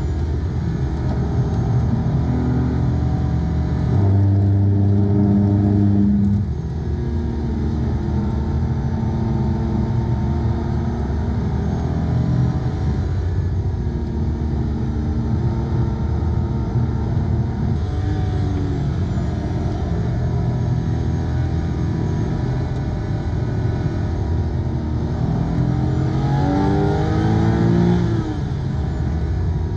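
Porsche 911 (997) Carrera 2S 3.8-litre flat-six engine pulling hard, its pitch rising and falling with throttle and gear changes. Near the end the revs climb steadily, then drop off abruptly at a shift or lift.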